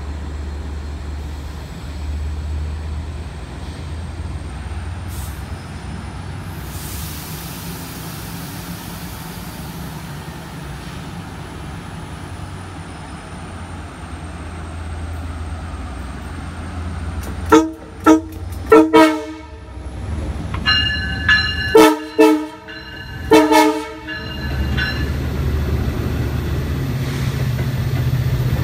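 Long Island Rail Road diesel push-pull train with C3 bilevel coaches standing at the platform with a steady low engine rumble. About two-thirds of the way in, the cab car's multi-tone horn sounds a run of short blasts. The engine then builds up, the rumble growing louder as the train starts to pull away.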